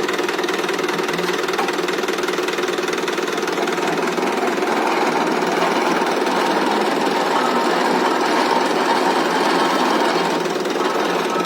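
Mahindra 575 tractor's diesel engine running with a knocking clatter while it drives a bore-well lifting machine. It gets louder for several seconds in the middle, then eases back near the end.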